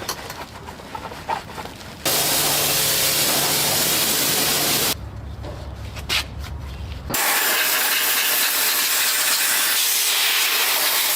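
Pressurised spray hissing steadily in two long bursts, each a few seconds long, that start and stop abruptly, with quieter handling noise between them.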